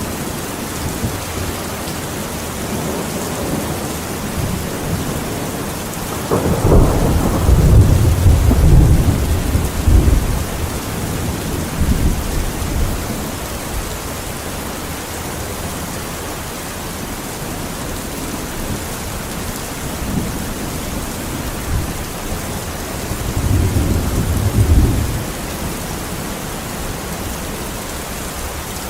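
Steady rain falling, with thunder rumbling low twice: a long roll starting about six seconds in and lasting several seconds, and a shorter one later on.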